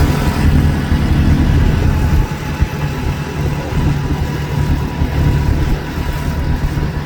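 Motor vehicle engine running steadily with a low rumble, slightly quieter from about two seconds in.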